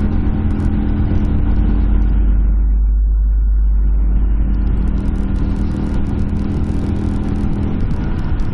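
Honda Varadero 125 V-twin motorcycle engine running at a steady pitch while riding, heard under a heavy low rumble of wind on the microphone that swells in the middle. The steady engine note drops away near the end.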